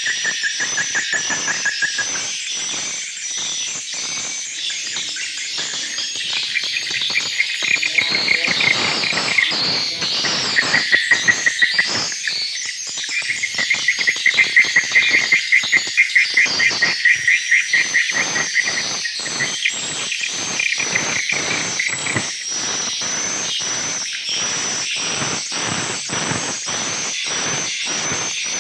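A crowd of edible-nest swiftlets twittering inside a swiftlet house: dense, high chirps over a fast train of short, rattling pulses. The sound swells loudest about halfway through.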